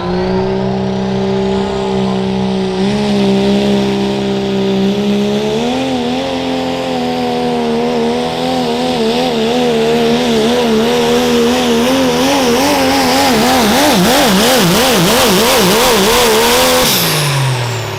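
Diesel pickup truck engine at full throttle pulling a sled, its pitch climbing in a couple of steps and then wavering rapidly up and down for several seconds. Near the end it drops off as the throttle is released.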